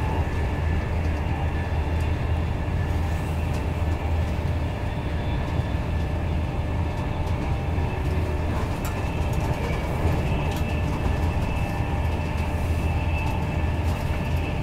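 Steady running noise inside a Mark 4 passenger coach of an InterCity 225 train at speed: a low rumble of wheels on rail with a faint steady whine above it and a few light clicks.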